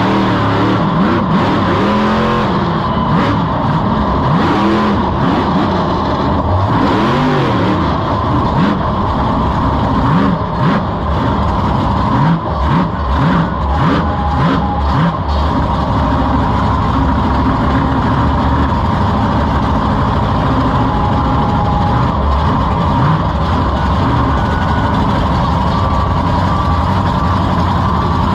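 Monster truck engine heard from on board the truck, revving up and down in quick rises and falls, with a run of sharp knocks and rattles about eight to fifteen seconds in, then running at a steady note for the rest.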